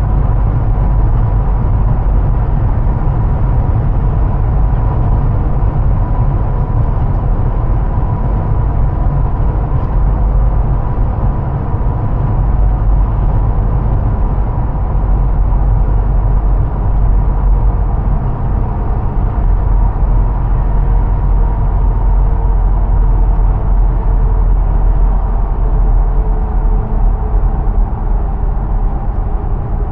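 2005 Hummer H2 with its 6.0 L V8 and 4-speed automatic, driving at a steady speed: a continuous deep rumble of engine and road noise with a steady whine over it. The whine's pitch eases slightly lower near the end.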